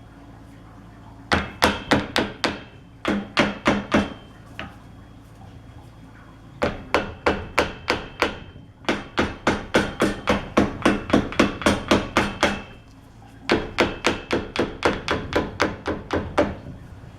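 Hammer tapping on steel in quick runs of about four to five strikes a second, with a faint metallic ring. There are four runs with short pauses between them, the longest in the middle.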